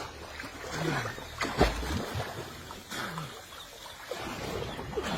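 Water splashing and dribbling in irregular bursts, with one heavier knock about a second and a half in.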